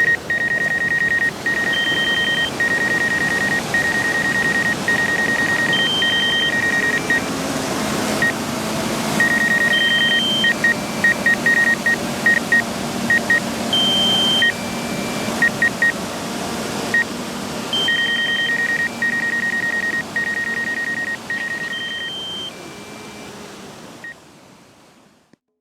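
Electronic beeping in a repeating pattern of long and short beeps, a higher tone now and then, over a steady rushing noise; it fades out near the end.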